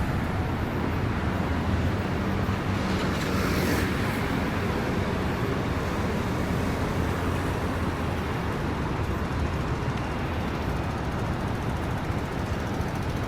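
City street traffic on rain-wet roads: a steady rumble of engines with tyre hiss, one vehicle passing a little louder about three to four seconds in.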